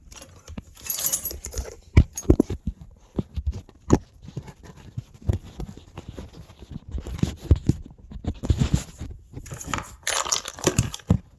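Irregular knocks, clicks and metallic clinks of tools and parts being handled and set down on a workbench, with a few short scrapes.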